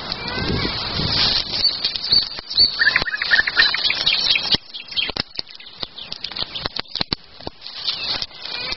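Wood campfire crackling, with irregular sharp snaps and pops that come thicker in the second half. Small birds chirp in the first few seconds.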